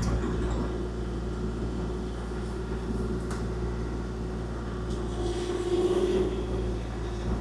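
Kubota KX040-4 mini excavator's diesel engine running steadily, growing a little louder for about a second around five seconds in.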